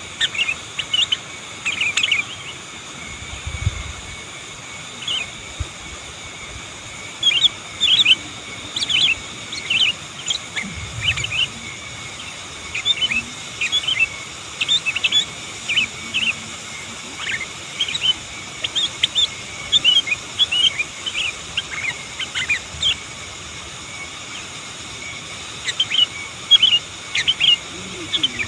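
Sooty-headed bulbul (kutilang) calling: repeated clusters of short, quick chirping notes with brief pauses between them, over a steady background hiss.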